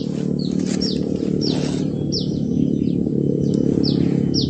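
A bird calling repeatedly in short, high notes that slide downward, about two a second, over a steady low hum.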